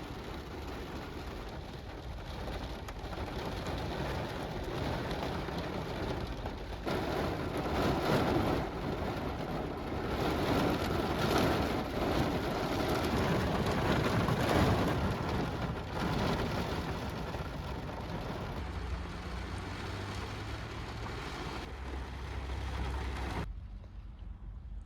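Heavy rain pouring steadily. It swells louder through the middle and drops off abruptly near the end.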